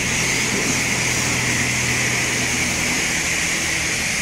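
Pressure washer spraying water: a steady hiss over a low motor hum.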